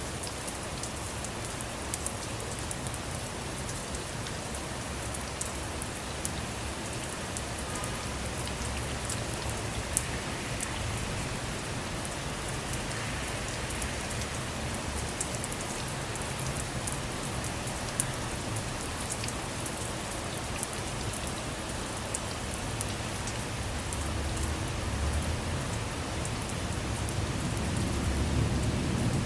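Steady rain falling on a car, with sharp ticks of single drops striking it. A low rumble of thunder builds near the end.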